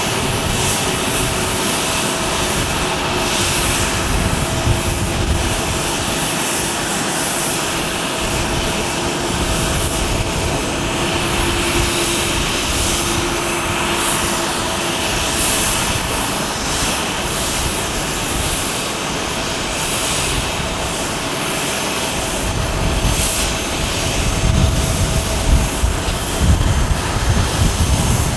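Airbus A330-300 jet engines, Rolls-Royce Trent 700s, running while taxiing: a steady whine with two held tones. A deeper rumble swells over the last few seconds.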